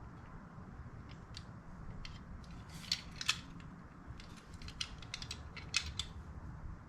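Scattered sharp clicks and taps of small metal parts and hand tools being handled, the loudest about three seconds in, over a steady low hum.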